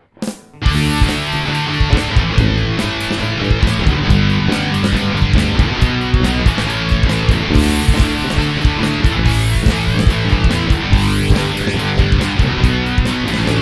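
Rock band playing the instrumental intro live: electric guitar, bass guitar and drums, with a steady drum beat. The band comes in abruptly about half a second in.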